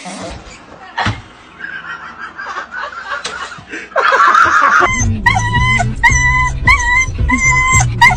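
A dog whining and yipping in high, wavering cries, then about five seconds in loud music with a steady beat and bass takes over.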